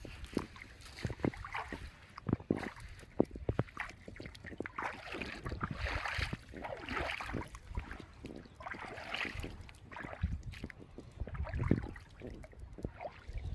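Water splashing and sloshing in irregular bursts, mixed with frequent sharp knocks and thumps.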